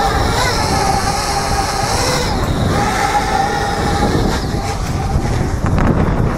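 Parrot Bebop 2 quadcopter's motors and propellers humming in flight, their pitch wavering, over loud rumbling wind noise on the microphone.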